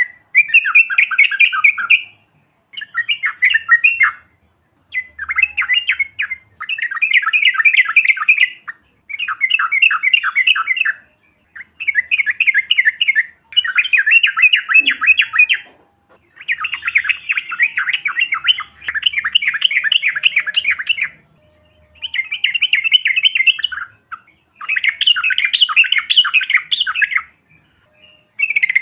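Yellow-vented bulbul (trucuk) singing in long, rapid chattering phrases, about ten of them in a row with short pauses between. This is the bird's 'ropel' (roll) song, used as a lure call.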